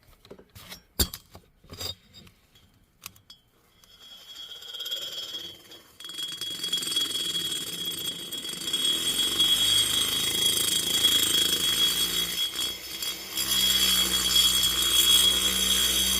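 A few tool-handling clicks and knocks, then a small high-speed rotary grinder spins up about four seconds in. It runs with a steady high whine while grinding the aluminium exhaust port of a chainsaw cylinder.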